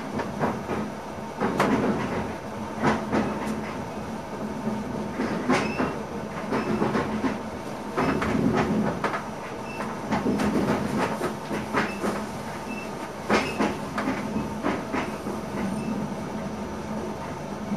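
Cab interior of an NS ICM (Koploper) electric train running along the track. The wheels knock and clatter irregularly over rail joints and switches, over a steady low hum.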